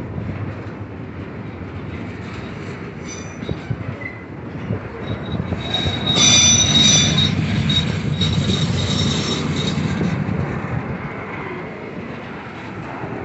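Train cars rolling along the rails with a steady rumble, and the wheels squealing in high metallic tones that swell about halfway through and fade a few seconds later.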